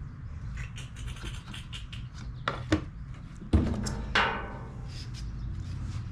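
Scattered light clicks and a few sharper knocks, the loudest two a little past halfway, from hand work on the Honda HRR216 mower's self-propel drive cable adjuster.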